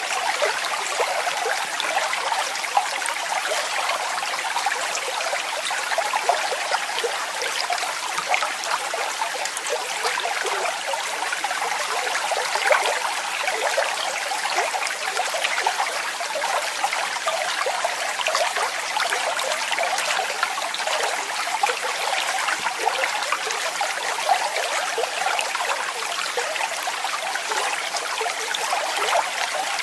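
Waterfall: water falling and splashing steadily, a dense patter of small splashes with no deep rumble.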